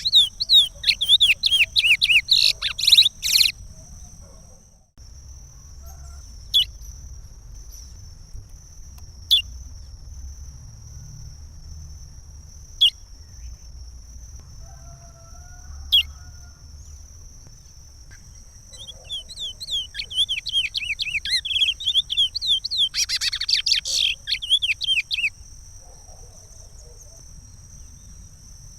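Curió (chestnut-bellied seed finch) singing the Pará regional song: a phrase of rapid whistled notes at the start, four lone sharp notes a few seconds apart, then another long phrase about 19 seconds in. A faint steady high tone runs underneath.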